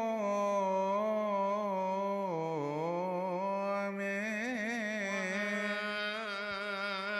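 A single male voice sings a long wordless melisma in Coptic liturgical chant. It holds a sustained line that wavers and turns through ornaments, dipping in pitch midway and rising again.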